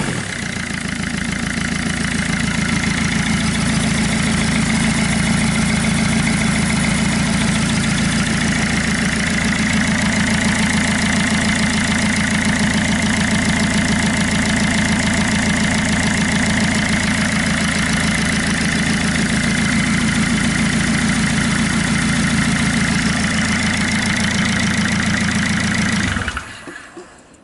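Hyundai/Kia D4FB 1.6 CRDi four-cylinder common-rail diesel engine idling steadily, then shut off about a second before the end, the sound cutting off suddenly.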